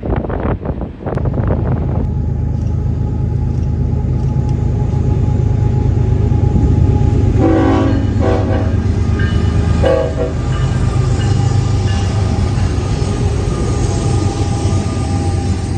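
Union Pacific diesel freight locomotives rumbling steadily as an intermodal train comes through, the lead GE ES44AC-H sounding its Nathan K5HL five-chime air horn. The horn gives a quick series of short blasts about seven to nine seconds in, then another near ten seconds. Wind noise and clatter fill the first second or two.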